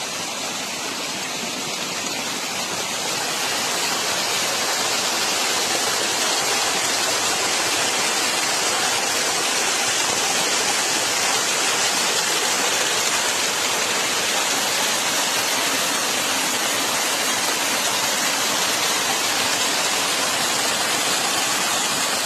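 Spring water gushing out from among rocks, a steady rushing that grows a little louder about four seconds in.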